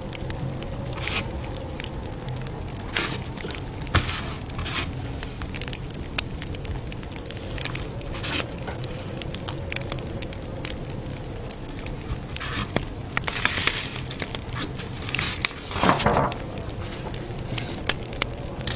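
Campfire crackling, with irregular sharp pops of burning wood over a steady low background, and a few longer rustling sounds in the second half.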